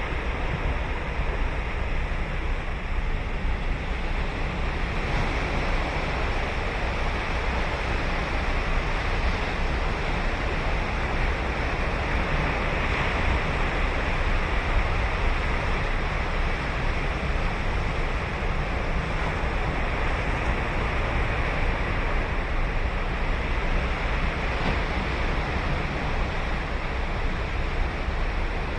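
Ocean surf breaking and washing on a sandy beach, a steady rush with no single wave standing out, and some wind on the microphone.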